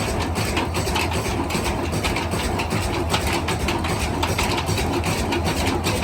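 Diesel engine idling steadily with an even, rapid knock.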